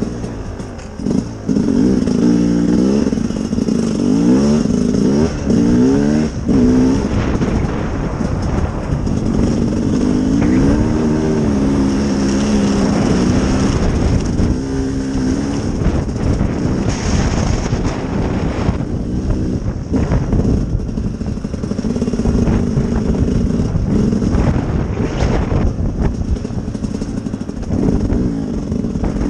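Sherco SE-R 300 two-stroke enduro motorcycle engine under way, revs rising in quick repeated sweeps over the first several seconds as the throttle is worked, then running steadier with a few brief drops in revs.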